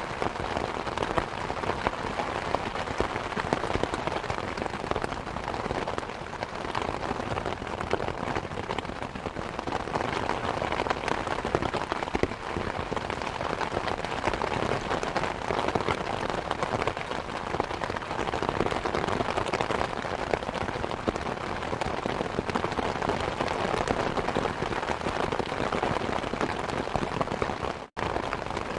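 Steady rain mixed with the crackle of a wood fire in a fireplace, a dense even hiss flecked with small pops. The sound cuts out for an instant shortly before the end.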